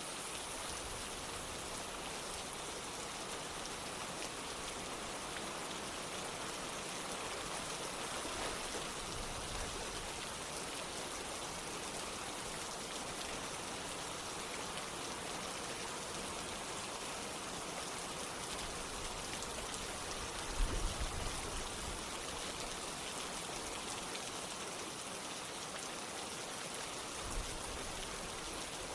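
Steady rain falling together with running water, an even, continuous hiss. A couple of brief low knocks stand out, one about two-thirds through and one near the end.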